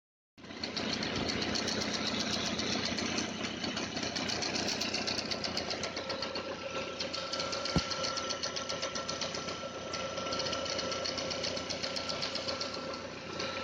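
Audi A3 8L 1.8T AGU turbocharged four-cylinder engine running hot at idle, with a fast, even ticking and a steady whine that comes up about halfway through, and a single sharp click near the middle. This is the strange noise from the timing-belt area, which comes only when the engine is hot. The owner suspects the water pump, which has play, with the timing belt walking off its pulley; there is also ticking from under the valve cover.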